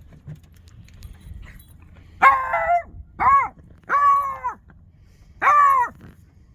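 A beagle barking four times, each bark a short call that rises and falls in pitch.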